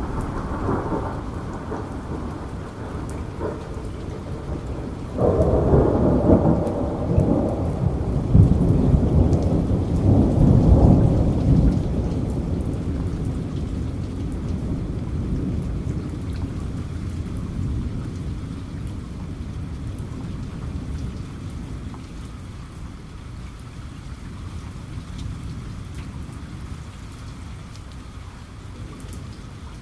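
Steady rain with a thunder rumble that breaks in suddenly about five seconds in, is loudest for several seconds, then dies away slowly while the rain goes on.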